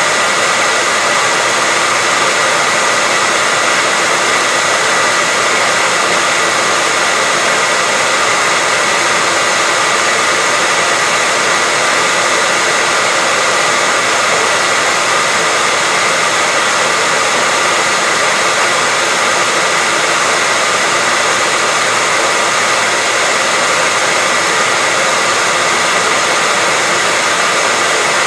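Hairdryer running continuously at a constant setting: a steady, unchanging rush of air with a faint high motor whine.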